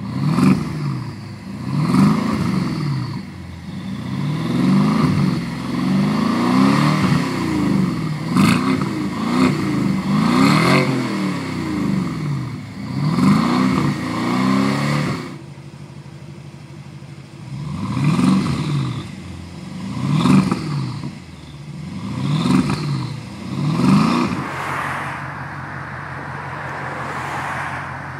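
BMW X6 50i's twin-turbo V8 free-revved through the exhaust: a run of quick throttle blips, the pitch climbing and falling about once a second, settling to a steady idle about halfway through, then four more single revs a couple of seconds apart before it drops back to idle.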